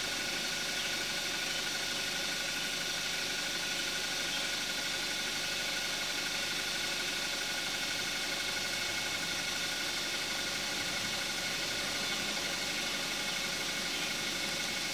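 2014 Kia Forte5 2.0 GDI four-cylinder direct-injection engine idling steadily with the hood closed, at about 41,000 miles on 5W-30 oil.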